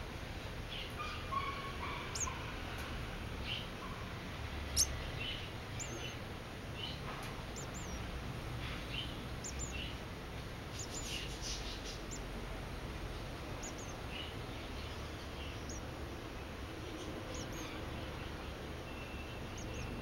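Small birds giving short, thin, high chirps, scattered irregularly, over a steady low hum. A single sharp click about five seconds in.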